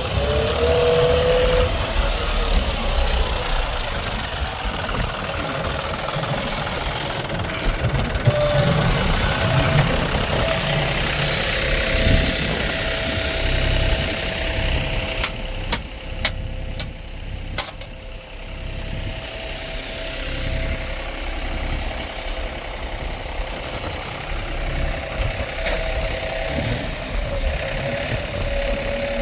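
Diesel engine of a JCB 3DX backhoe loader running under changing load as it works, with a whine that steps up and down in pitch. A quick run of four or five sharp clicks comes about halfway through.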